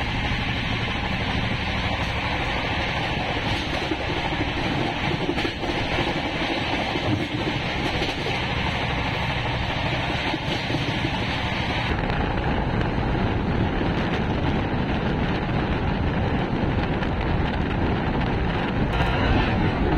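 Steady running noise of an express train heard from on board, with wheels on the rails and wind rushing over the microphone. The noise changes character about two-thirds of the way through.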